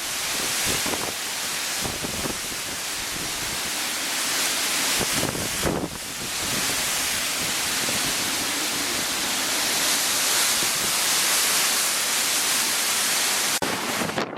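Heavy typhoon rain pouring down in a steady loud rush, with a short lull a little before halfway.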